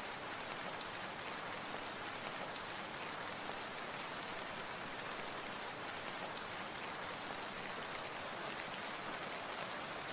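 Steady rain falling, an even wash of countless drops that holds the same level throughout.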